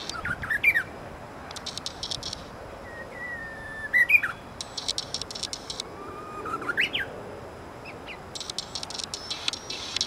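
Japanese bush warbler (uguisu) singing its 'hō-hokekyo' song: a long whistled note ending in a quick rising flourish about four seconds in, with shorter rising whistled phrases near the start and around seven seconds. Runs of rapid dry ticking come between the phrases.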